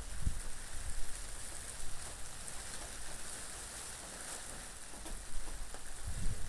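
Steady rain falling as an even hiss, with wind. A low rumble comes just after the start and again near the end.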